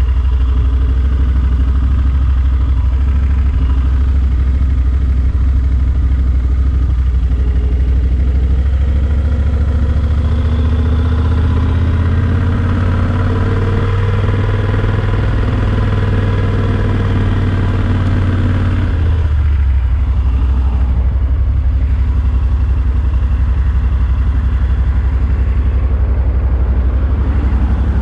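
Yamaha Super Ténéré XT1200's parallel-twin engine running on the road. Its note climbs through the middle, then drops suddenly about two-thirds of the way in and settles back to a steady run.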